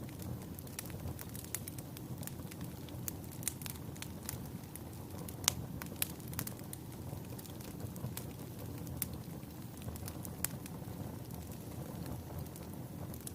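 Wood fire burning in a fireplace: a steady low rumble of flames with irregular sharp crackles and pops from the logs, a louder pop about halfway through.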